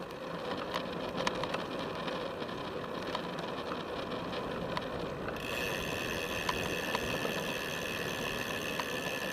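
Felt F75 road bike rolling along a paved path, heard from a camera on its top tube: steady tyre and wind noise with light clicks and rattles. About halfway through the noise turns brighter, with more hiss.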